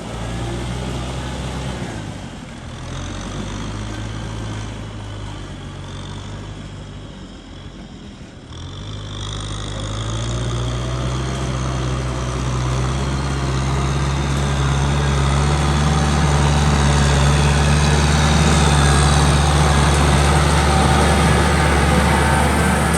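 Kubota M6040 tractor's diesel engine running while plowing a muddy field: a steady engine drone that drops away for a few seconds, then grows louder from about nine seconds in and holds loud and steady.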